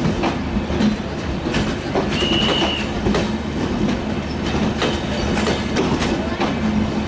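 Broad-gauge LHB passenger coaches rolling past at close range: a steady rumble with wheels clacking over the rail joints. A short, high-pitched squeal from the train comes about two seconds in.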